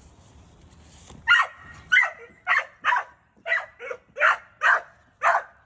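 A dog barking in a steady string of sharp barks, about two a second, beginning just over a second in after a quiet moment.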